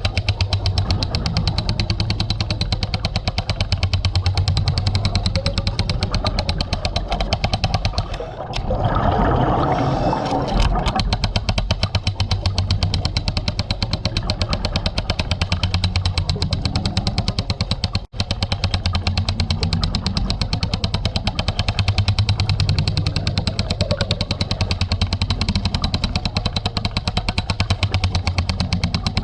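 Hydraulic hammer drill hammering into concrete, a fast, even rattle. It stops for about two seconds some eight seconds in, where a brief rushing noise fills the gap, then carries on, with another instant's drop-out later.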